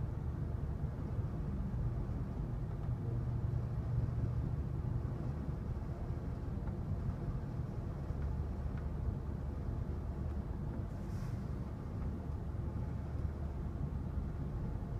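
Steady low rumble of the Amtrak California Zephyr passenger car in motion, heard from inside the car: wheels running on the rails and the car's running noise.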